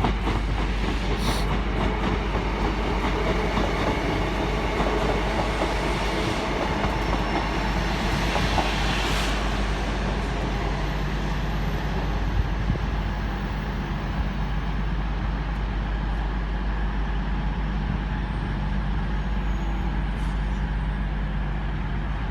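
Class 150 Sprinter diesel multiple unit at the platform, its diesel engines running with a steady drone and some rail noise from the wheels.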